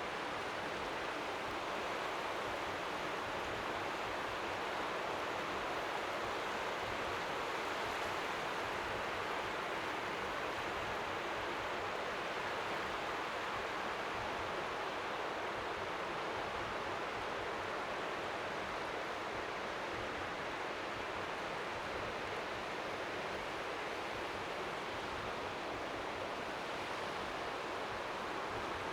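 Steady hiss of strong wind by the sea, an even white-noise wash with a flickering low rumble underneath, the waves faint beneath it.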